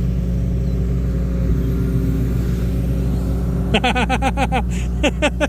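Heavy machine's engine running steadily under load while it drives through mud. About four seconds in, a quick run of short, falling chirps starts, about eight a second, and it comes again just before the end.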